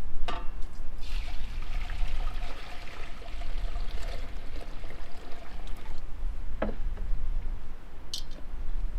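Liquid being poured for about five seconds, with a short knock before it and another after.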